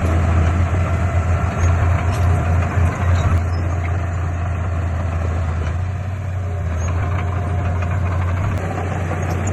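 Heavy construction-machine diesel engine running with a deep, steady hum, pulsing unevenly for about the first three seconds and then settling to an even tone.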